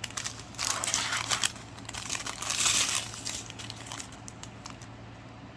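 Small plastic bags of diamond painting drills crinkling as they are handled, loudest in two stretches and tapering off near the end.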